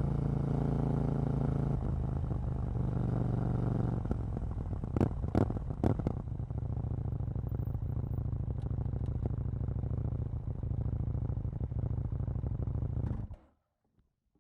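KTM 790 Duke's 799 cc parallel-twin engine idling steadily, with three sharp cracks about five to six seconds in. The engine is then switched off and the sound stops abruptly near the end.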